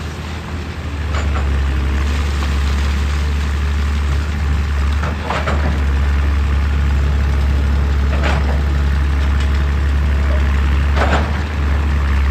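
Heavy diesel engine of a hydraulic excavator running with a steady low drone that grows louder about a second in. Four short noisy bursts come through about three seconds apart.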